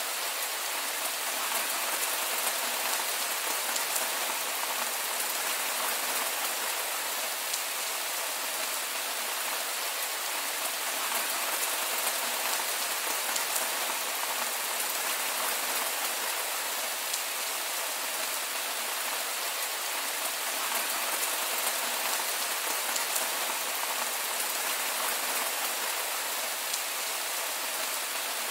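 Heavy rain falling steadily: an even hiss with many small drop ticks, without thunder.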